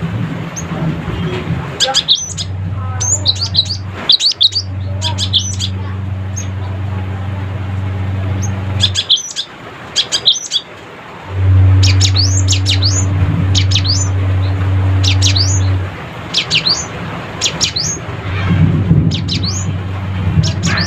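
Cinereous tit (gelatik batu) giving rapid chattering calls in clusters of quick, high, falling notes. Under it a steady low hum cuts in and out several times, loudest around the middle.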